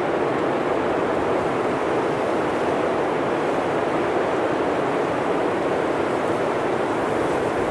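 Blizzard wind blowing steadily: an even rushing noise that holds at one level without gusts or whistling.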